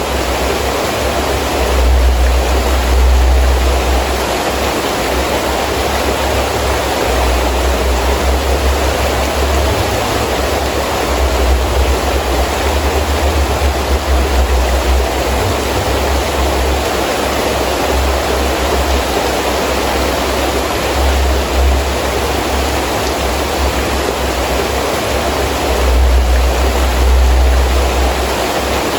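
Heavy rain falling steadily in strong wind, as a dense, even hiss. A low rumble swells and fades beneath it several times, strongest a couple of seconds in and again near the end.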